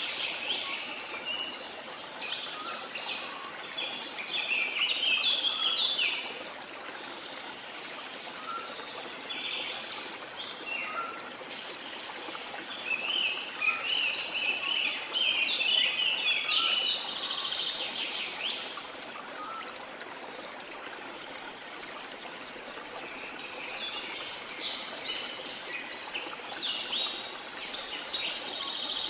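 Birds singing and chirping in several bouts with short lulls, over the steady rush of a waterfall.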